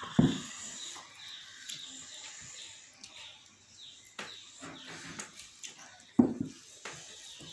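Small birds chirping over and over in the background, short falling chirps. Two loud dull thumps stand out, one right at the start and one just after six seconds in.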